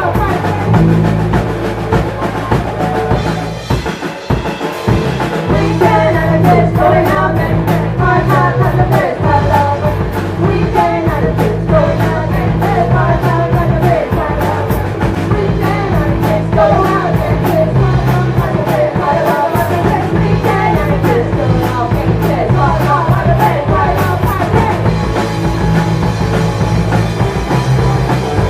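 Live rock band playing loudly: bass, guitar and drum kit, with singing.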